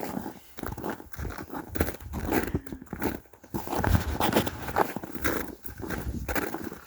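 Footsteps crunching on frozen snow and ice, an uneven run of crunches as people walk.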